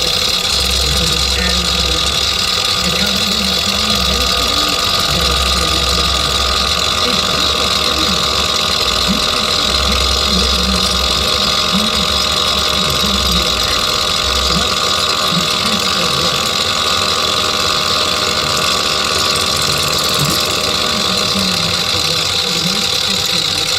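A machine tool running steadily, with a constant high whine and several steady hums. A low rumble underneath drops away about fifteen seconds in.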